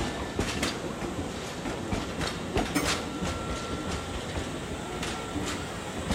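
Nankai 10000 series electric train rolling past over yard tracks, its wheels clacking over rail joints and points in an irregular run of clicks over a steady rumble. A faint steady high tone comes in about halfway.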